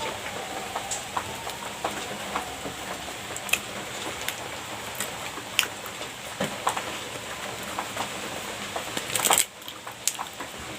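Someone eating pastry close to the microphone: scattered soft clicks and mouth sounds over a steady hiss, with a louder brief scrape or rustle about nine seconds in.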